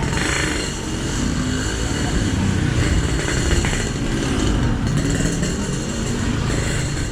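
Motorbike engine running, its pitch rising and falling as it speeds up and slows.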